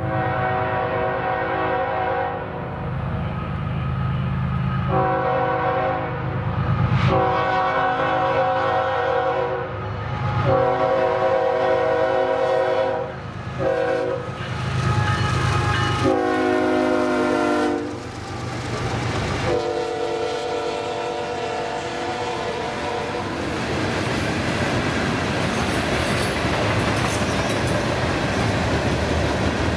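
Diesel locomotive sounding its multi-chime air horn in a series of long blasts over the low rumble of its engine, the horn's pitch dropping as it passes by. After the horn stops, the train's cars roll past with a steady clatter of wheels on rail.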